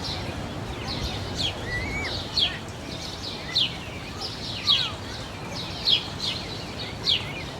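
Birds chirping: short, sharp downward chirps repeated roughly once a second, with a couple of softer whistled notes in between, over a steady low background hum.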